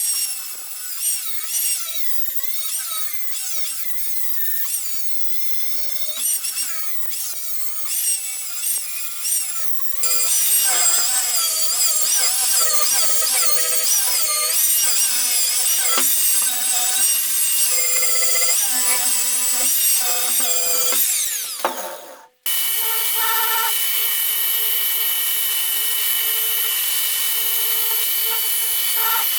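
A handheld power tool runs against the work, its whine repeatedly dipping and recovering in pitch as it is pressed on. The sound changes abruptly about a third of the way in and again after a brief dropout about three-quarters in, each time to a louder, steadier whine.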